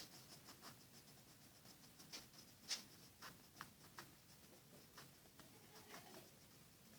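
Faint scratching of an HB graphite pencil sketching on paper, in short, irregular strokes, with one sharper stroke a little under three seconds in.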